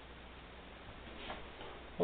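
Quiet room tone: a low steady hum with a faint tick about a second in.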